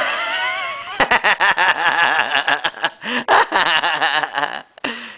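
People laughing hard in rapid, high-pitched pulses. The laughter begins about a second in, after a high, wavering squeal, and dies away near the end.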